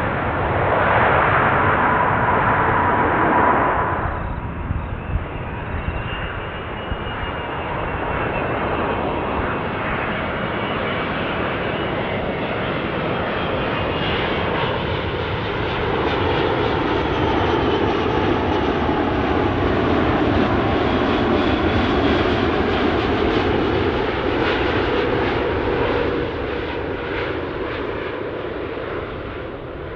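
Jet airliner engine noise during landings. One aircraft's noise drops off abruptly about four seconds in. Another airliner's engines then build steadily, are loudest in the second half, and fade near the end.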